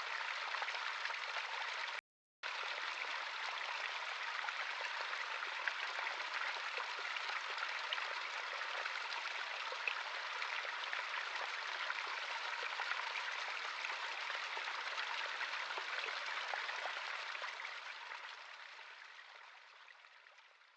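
Stream of running water flowing in a steady babble, with a brief silent gap about two seconds in; it fades out over the last few seconds.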